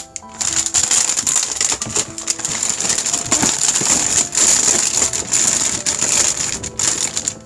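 Dense rustling and clicking handling noise, like packaging or items being moved about, over quiet background music; it starts just after the beginning and stops shortly before the end.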